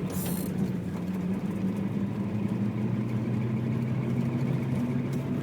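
Steady low drone heard inside a 1993 Acura Integra while driving, made of a few steady low tones whose pitch creeps slightly higher near the end, with a brief high hiss just after the start. It is the constant noise the owner hears from outside on the driver's side, which only appears above about 15–20 mph and whose cause he has not found.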